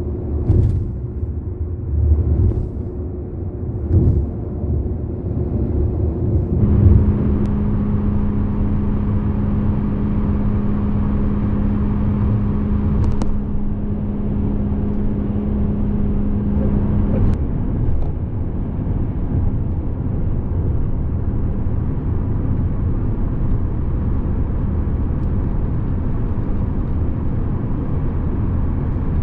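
Car driving at highway speed, heard from inside the cabin: a steady low rumble of tyres and engine. About seven seconds in, a steady low hum joins and the tyre hiss brightens for about ten seconds, then drops back.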